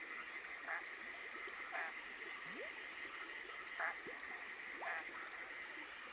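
Night-time rainforest stream ambience: running water under a steady insect drone. A high-pitched insect trill switches on and off every second or so, and short calls repeat about once a second, with a few quick rising chirps.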